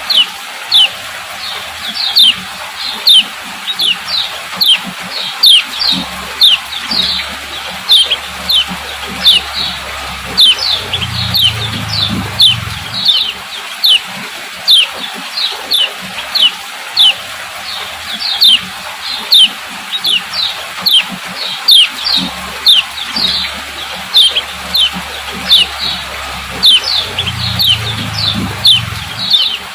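Female kecial kuning giving its "ciak ciak" call: short, sharp, falling chirps repeated about twice a second without a break, over a faint low hum.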